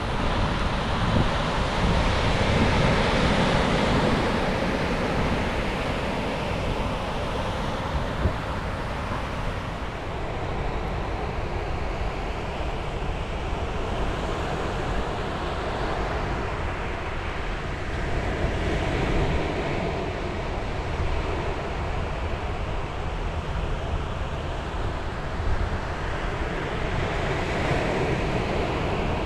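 Ocean waves breaking and washing on a beach in slow swells, with wind buffeting the microphone.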